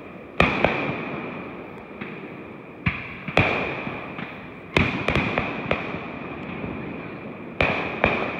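Aerial fireworks bursting overhead: a string of sharp bangs, each trailing off in an echo. Two come about half a second in, two near three seconds, several in quick succession around five seconds, and two more near the end. A steady high-pitched hum runs beneath them.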